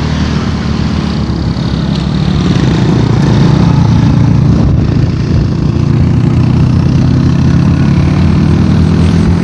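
A motor vehicle's engine running on the move under heavy wind and rush noise. It gets louder about two and a half seconds in.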